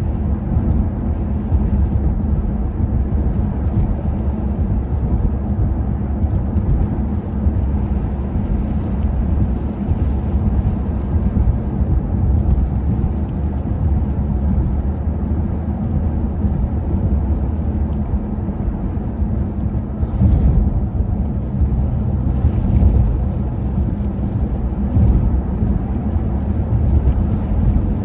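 Steady low rumble of blizzard wind buffeting the microphone, with a few faint soft taps in the second half.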